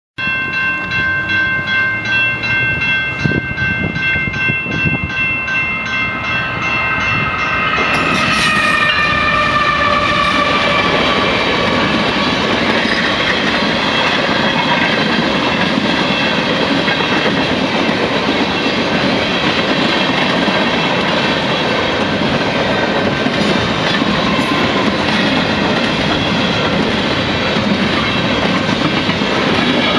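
Fast CN freight train led by two ES44AC diesel locomotives sounding its horn on approach. The horn chord drops in pitch about eight seconds in as the locomotives pass, then fades under the loud steady rush and wheel clatter of the freight cars going by at speed.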